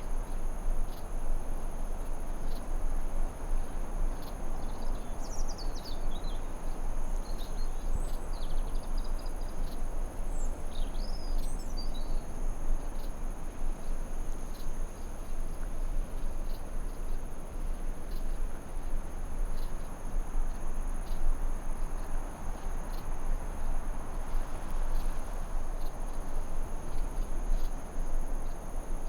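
Forest ambience: a steady rushing hiss under a constant high-pitched insect drone, with small birds chirping now and then during the first twelve seconds or so.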